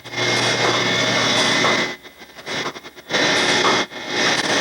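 Loud hissing rush of air from dairy milking equipment. It drops out briefly twice.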